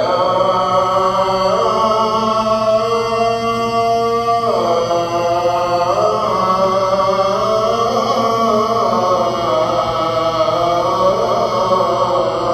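Chant-like vocal music: a voice holding long, slowly gliding notes, which starts and stops abruptly.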